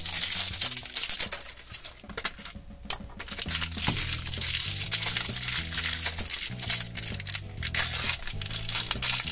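Toy blind-bag packaging crinkling as it is handled and opened, over background music with a steady bass line.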